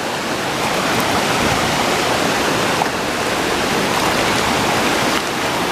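Fast-flowing river water rushing over rapids, a loud steady wash.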